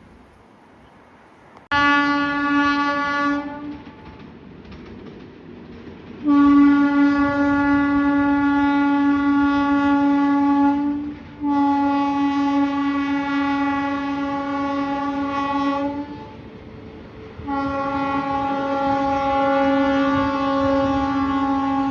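Indian Railways locomotive horn sounding one short blast and then three long, steady blasts, over the low rumble of the passing train.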